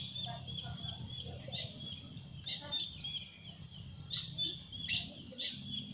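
Songbirds chirping: a run of short, quick high notes repeating through the whole stretch, with a few louder calls near the end, over a low steady hum.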